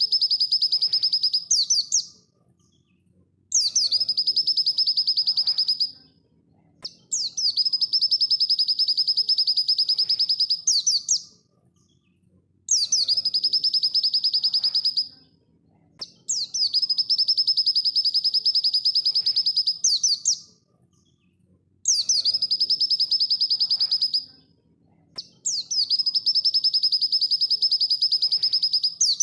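Pleci dakun white-eye singing its song in repeated phrases of two to four seconds, each a very rapid, even, high-pitched trill ending in a short sweep, with brief pauses between phrases.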